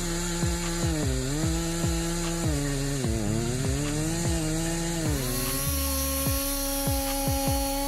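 Gasoline chainsaw running while cutting wood: the engine's pitch sags again and again as the chain bites in and recovers, then holds a steady pitch over the last couple of seconds.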